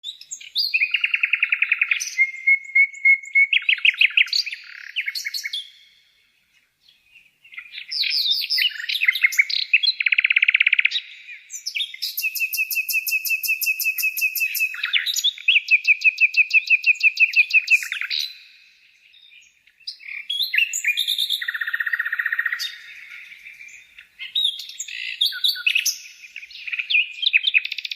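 A songbird singing long, varied phrases of rapid high trills and chirps, with two short breaks in the song.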